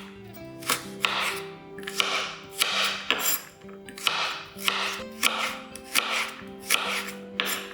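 Vegetables being prepared by hand in rhythmic rasping strokes, about one every two-thirds of a second, over soft background music.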